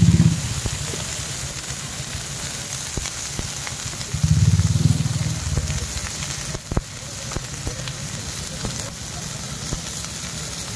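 Momos and shredded cabbage sizzling steadily as they fry in a wok over a gas flame. A low rush of flame flares up at the start and again about four seconds in.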